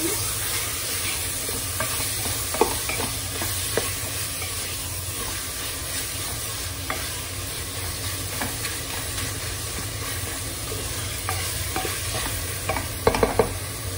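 Mutton, onions and spices frying in an open aluminium pressure cooker with a steady sizzle, while a wooden spatula stirs them, scraping and clicking against the pot. A short cluster of louder knocks comes near the end.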